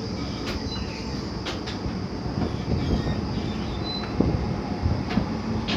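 Passenger train running along the track: a steady rumble and rattle with a few sharp clicks scattered through it.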